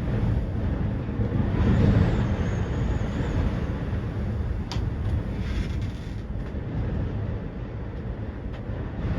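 Gondola lift running in strong wind: a steady low rumble with wind buffeting the microphone, a faint thin high tone about two seconds in, and a single sharp click near the middle.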